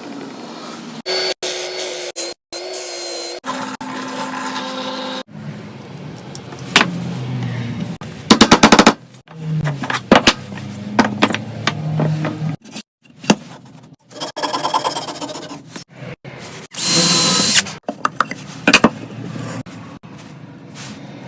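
A quick succession of woodworking power-tool sounds with abrupt cuts between them: motor whines, a burst of rapid clicks and scattered sharp knocks of tools on wood.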